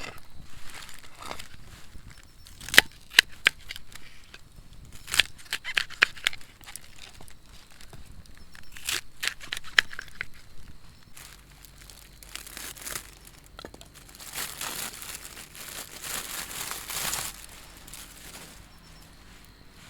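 Close-up crinkling and tearing of packaging being handled by hand, with scattered sharp clicks and knocks, and a longer spell of rustling near the end.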